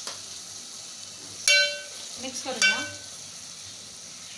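Onion-tomato masala frying in oil with a steady sizzle as it is stirred with a spoon. The spoon strikes the metal pot twice with a short ringing clang, about a second and a half in and again about a second later.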